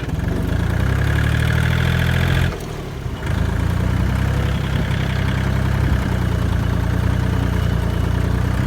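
Diesel tractor engine running under throttle, dropping off briefly about two and a half seconds in during a gear change, then pulling again.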